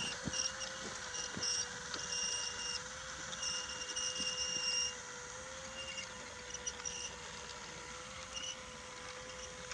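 Battery-powered Brio toy locomotive running on wooden track, its small electric motor giving a steady hum. Several clicks in the first second and a half, as of wheels passing track joints, and a high squeak that comes and goes.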